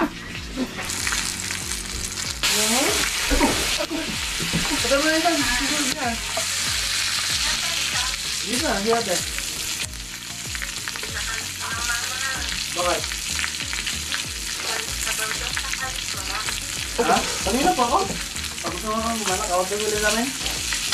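Squid frying in hot oil in a pan on a portable gas burner, sizzling steadily. The sizzle starts about a second in.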